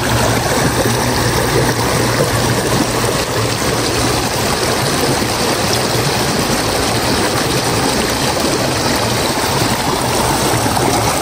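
A river flowing, a steady rush of water.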